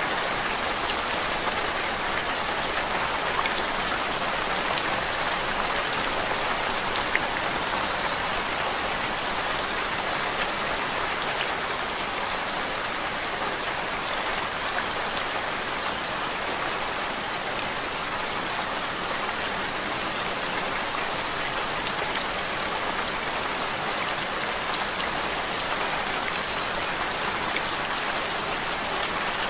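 Steady rain: an even hiss of drops landing on a surface, with many small drop ticks scattered through it and no change in intensity.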